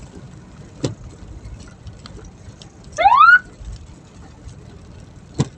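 A hearse's siren gives one short rising whoop about three seconds in, over the low rumble of the moving vehicle. Two sharp knocks come, one near the start and one near the end.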